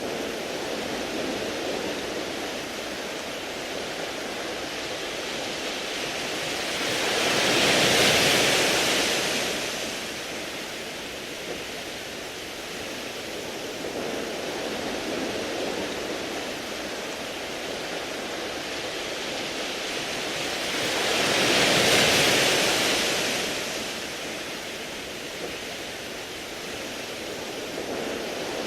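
Waves washing onto a beach of smooth round pebbles: a steady surf hiss with two waves swelling up and breaking, about 14 seconds apart.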